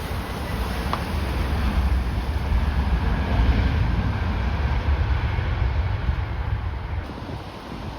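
Jet airliner on approach passing by, its engine rumble swelling to a peak mid-way and fading near the end, with strong gusting wind buffeting the microphone.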